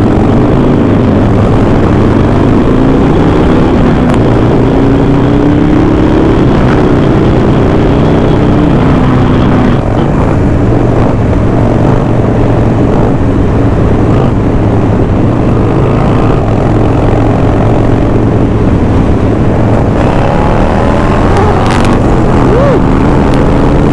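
Harley-Davidson Sportster V-twin motorcycle engines running at road speed, over a steady low wind rumble. The engine note rises as the bike accelerates in the first several seconds and again near the end.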